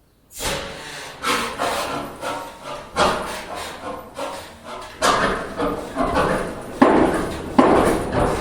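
Large stationary Crossley diesel engine starting up for its first run in 50 years: it catches and fires in uneven heavy beats, some far louder than others, as it begins to run.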